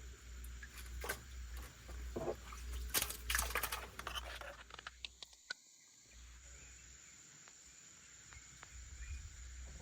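Rustling and handling clicks, densest a few seconds in, over a steady low rumble of wind on the microphone.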